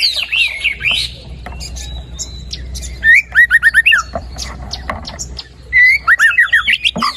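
White-rumped shama (murai batu) singing: three bursts of quick, repeated whistled notes, at the start, about three seconds in and near six seconds, with quieter chirps between.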